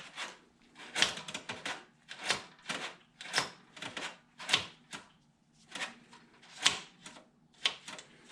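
Choke cable being pulled out and pushed back in repeatedly to test it, working the carburetor's choke linkage: a run of short sliding clicks and clacks, roughly one to two a second, with a brief pause about halfway through.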